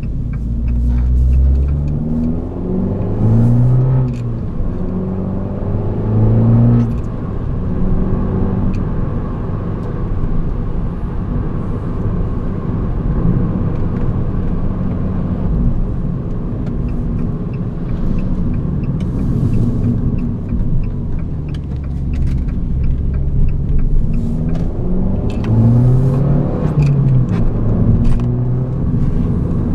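Abarth 595 Competizione's 1.4-litre turbocharged four-cylinder engine and exhaust under way, its pitch rising and falling as it accelerates through the gears in the first few seconds and again near the end. Between these it holds steadier, with road noise.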